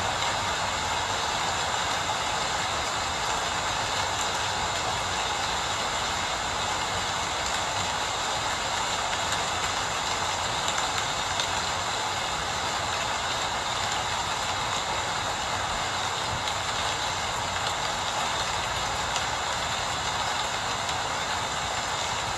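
Steady rain falling, an even hiss with no single drops or events standing out.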